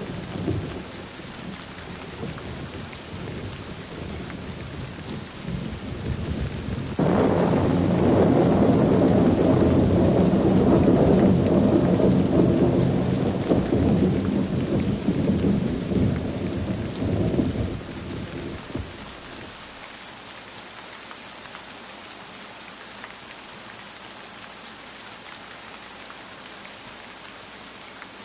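Rain falling with thunder: a low rumble dies down over the first seconds, then a sudden loud thunderclap about seven seconds in rolls on for some ten seconds and fades out, leaving only the steady hiss of rain.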